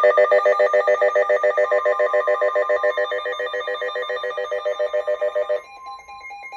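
Weather radio emergency alert tones: a loud, rapidly pulsing warbling alarm, about eight pulses a second, sounding for a severe thunderstorm warning. About five and a half seconds in it stops, leaving a steady high alert tone with a second, beeping alarm over it.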